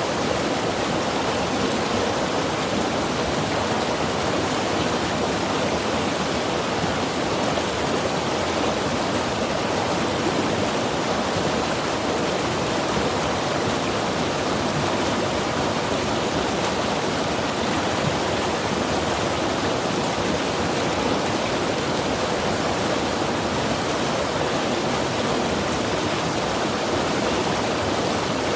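Mountain river rushing steadily over rocks, an even, unbroken roar of water.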